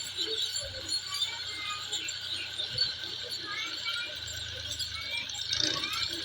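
A flock of small birds chirping and twittering together, many overlapping short calls.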